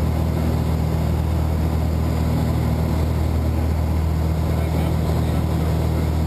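Small plane's engine and propeller in flight, a steady low drone that holds at an even pitch and level.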